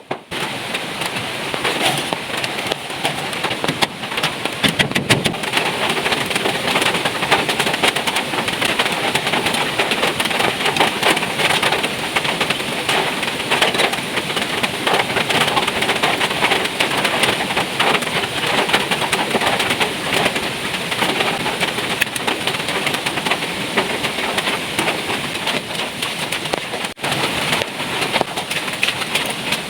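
Heavy rain pouring steadily, a dense patter of drops striking a surface.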